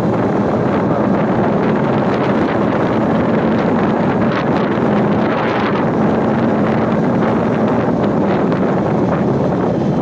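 Wind rushing over the microphone on a moving motorcycle, with a Royal Enfield Meteor 350's single-cylinder engine running steadily underneath.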